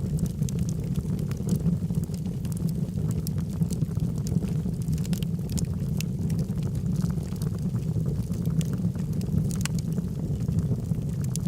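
Wood fire of burning logs in a fireplace: a steady low rumble of flame with scattered sharp crackles and pops at irregular times, one louder pop late on.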